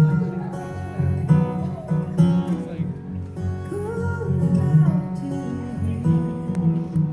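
A band playing an instrumental passage: a lead guitar line with gliding, bending notes over the full band.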